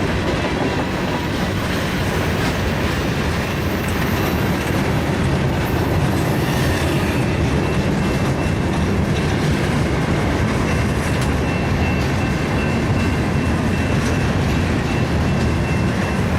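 A train rolling past, its wheels clattering steadily over the rails, with a faint high squeal from the wheels joining about halfway through.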